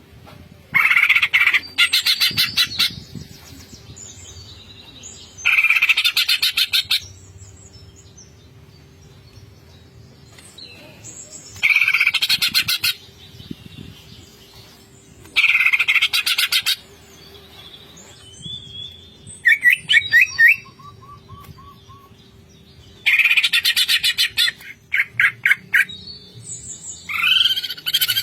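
Green leafbird (cucak ijo) singing in loud bursts of rapid, stuttering repeated notes, the 'ngentrok' style, about six bursts of a second or two each with quieter gaps between. Around two-thirds of the way through come a few short whistled notes, and a faint steady hum runs underneath.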